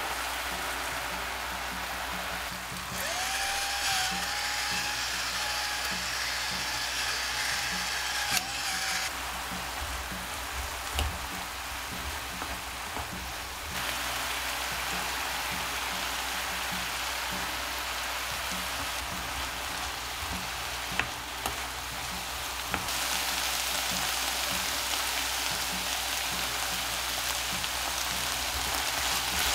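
Eggplant, onion and ground beef sizzling in a frying pan as they are stir-fried, a steady frying hiss. About three seconds in the sizzle grows louder and brighter for several seconds as soy sauce is poured onto the hot rim of the pan to scorch it for a smoky flavour.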